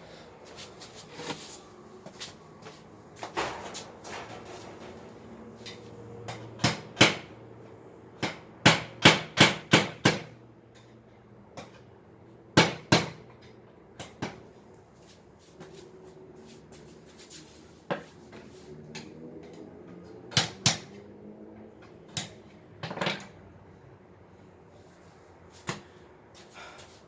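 Hammer knocking nails into a baby bed's frame in irregular bursts of sharp blows, among them a run of five quick strikes about eight to ten seconds in.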